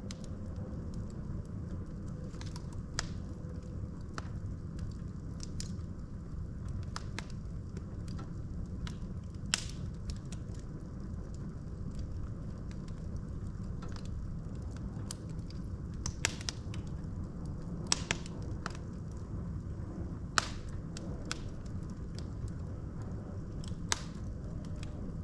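Wood fire burning in a fireplace: a steady low rumble of flames with scattered sharp crackles and pops from the logs, a few louder snaps among them.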